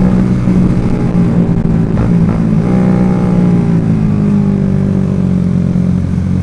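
Motorcycle engine running at steady riding revs, with low wind rumble on the microphone. A second, higher engine note comes in about two and a half seconds in and slowly falls.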